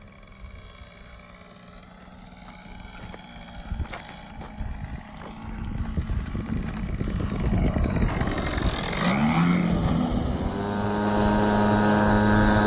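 The O.S. GT15 two-stroke gas engine of an RC Piper Cub, faint at first and growing steadily louder as the plane comes closer. About nine seconds in the engine revs up, then holds a steady high pitch.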